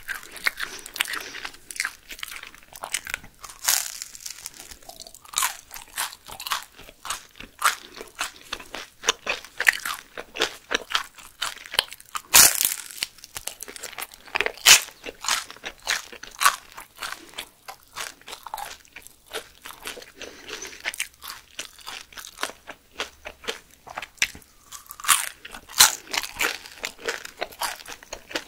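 Close-miked biting and chewing of crisp food: a rapid, irregular run of sharp crunches, with the loudest crunch about twelve seconds in.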